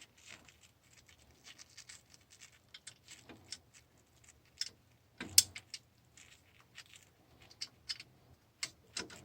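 Light clicks and scrapes of sheet-metal parts, screws and a screwdriver being handled while fitting a cover, with one sharper click about five seconds in.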